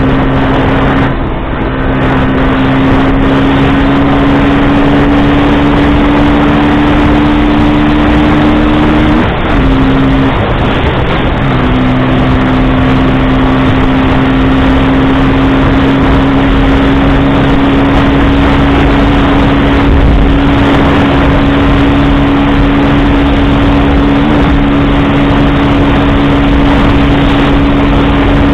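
KTM Duke 125's single-cylinder four-stroke engine running at steady cruising revs on the move, with rushing wind and road noise. About ten seconds in, the engine note briefly drops off, then picks up again at much the same pitch.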